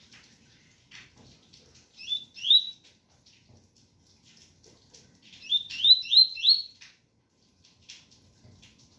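Double-collared seedeater (coleiro) singing a 'tui-tui' song: short rising chirps, two about two seconds in and four in quick succession around five and a half seconds, over faint scattered ticks.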